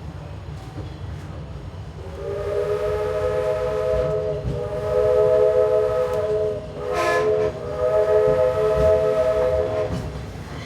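Steam locomotive's chime whistle sounding a long multi-note blast over the rumble of the moving train. It breaks briefly twice and tails off near the end.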